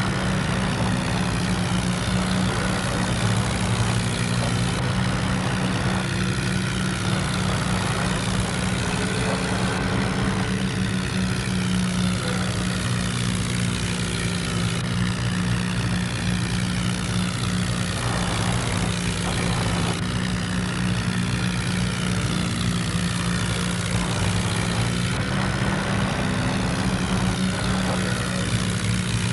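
Remote-control toy tractor running with a steady, unchanging low engine-like drone.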